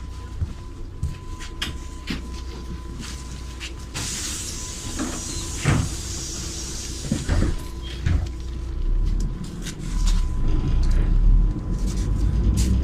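Inside a MAZ-103 city bus: the engine runs with a steady low hum, under a faint steady high tone. About four seconds in comes a hiss of compressed air with clicks and knocks, typical of the pneumatic doors working. From about nine seconds in, the engine's low rumble gets louder.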